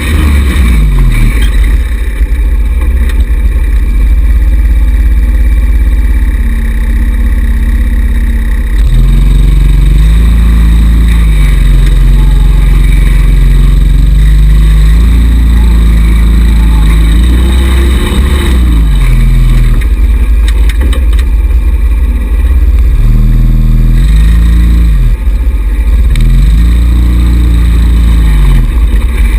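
Small 110cc single-cylinder four-stroke buggy engine running, the throttle opened and closed again and again so the engine note rises and falls in repeated swells, over a constant deep rumble.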